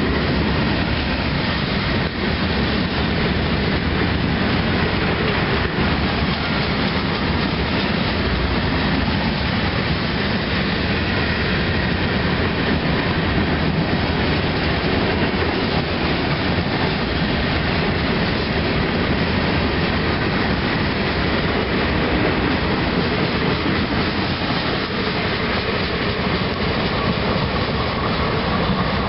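CSX freight train's cars rolling past close by, steel wheels running steadily on the rails, as the last cars go by near the end.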